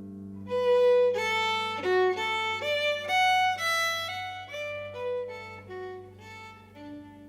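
Recorded Irish folk music: a fiddle plays a melody of quick separate notes over a low held chord that slowly fades.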